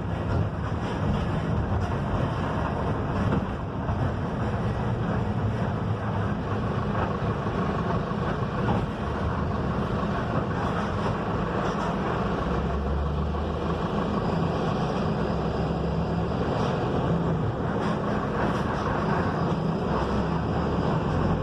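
Mercedes-Benz OF-1721 BlueTec 5 city bus under way: the diesel engine running steadily with road and body rumble heard from inside the bus.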